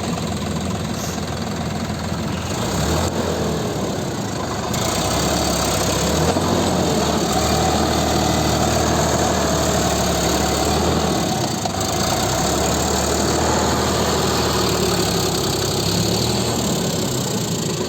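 Tractor engine running steadily, getting louder about four seconds in and holding there before easing back near the end.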